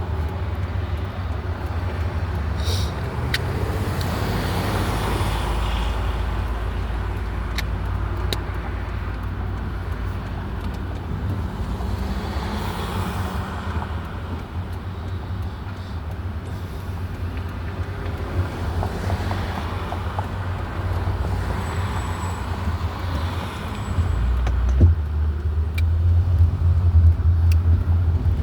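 Steady low rumble of vehicle road noise, with a few swelling whooshes; the rumble grows louder near the end.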